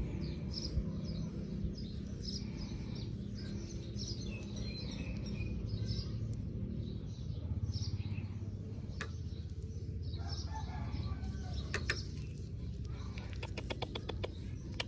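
Small birds chirping repeatedly in short high calls over a steady low rumble; near the end, a quick run of sharp clicks.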